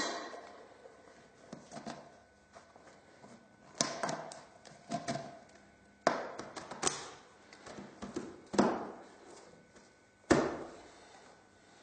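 Tin cans and a glass jar knocking and clinking as the cans are fitted into the jar: a handful of separate sharp knocks with short ringing tails, the loudest near the end, between quieter handling scrapes.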